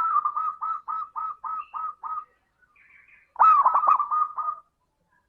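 Zebra dove (perkutut) cooing: a phrase of rapid staccato coos that fades out just past two seconds, then a second loud phrase beginning with a sweeping note about three and a half seconds in.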